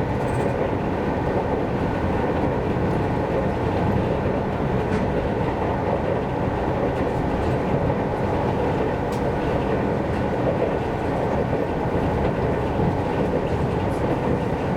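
Seibu Railway commuter train running at steady speed, heard from inside the passenger car: a continuous rumble of wheels on the track, with a few faint clicks.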